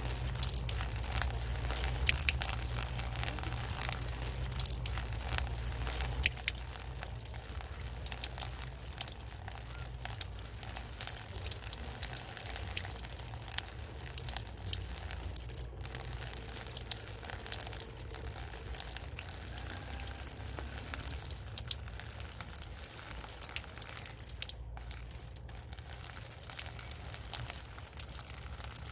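Rain pattering in a dense, irregular spray of drops, over a steady low hum.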